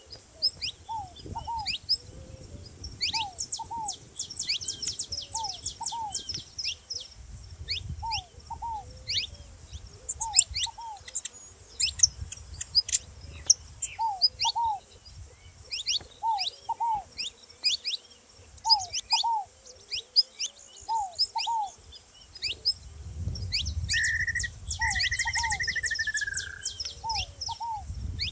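Saffron finches calling with rapid, sharp high chips in dense flurries. Under them runs a steady series of lower two-note calls, repeated every second or so, which the title puts down to a ground dove.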